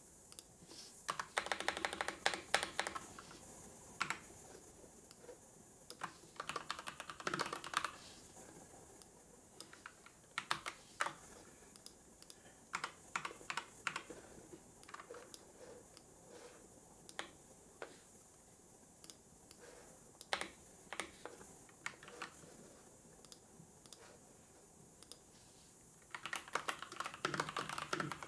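Typing on a computer keyboard: irregular runs of key clicks, with quicker bursts about two seconds in, around seven seconds in and near the end, and scattered single keystrokes between.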